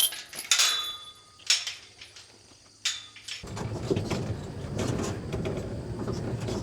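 Several sharp metallic clanks and knocks, some leaving a brief high ring, typical of galvanized fence-brace pipe and hardware being handled. About three and a half seconds in, a steady low rumble starts and keeps going.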